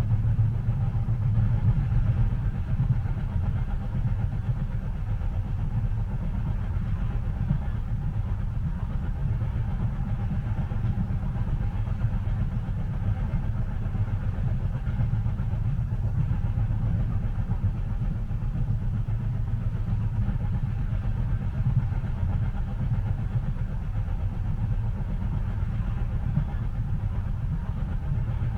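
Train running, heard from inside the passenger cabin: a steady low rumble with a faint hum above it.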